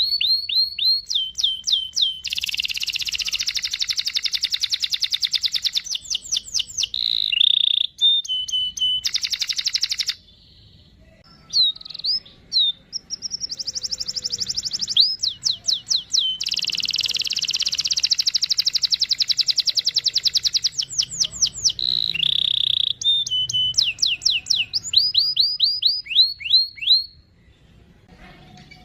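Domestic canary singing: fast trills of repeated falling chirps alternating with long, dense rolls, broken by two short pauses.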